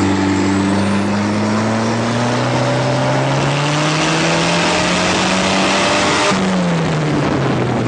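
Turbocharged tractor engine running hard, its pitch climbing steadily for about five seconds, then falling off sharply about six seconds in as the engine comes off the throttle.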